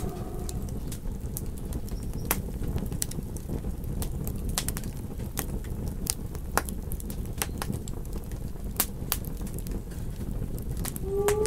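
Campfire crackling: irregular sharp pops and snaps over a steady low rumble of burning wood. A wolf howl starts to rise near the end.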